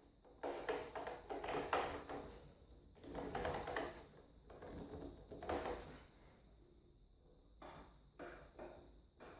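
Hard objects being handled on a workbench: irregular clusters of clicks, taps and rattles, loudest about two seconds in, with a few softer taps near the end.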